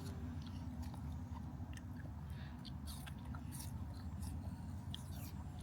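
Faint chewing and crunching of children eating snacks: small, scattered crunches and clicks over a steady low hum.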